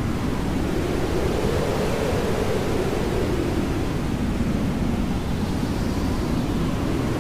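Hair dryer blowing steadily: a continuous rushing noise whose lower part drifts slowly up and down in pitch.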